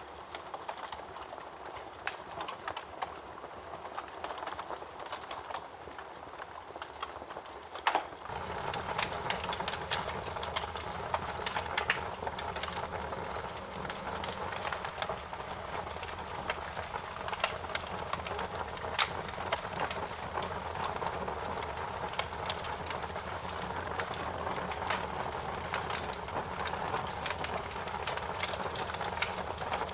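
Wood fire crackling, with many sharp pops and snaps over a steady hiss. About eight seconds in, the sound turns louder and fuller, with a low rumble underneath.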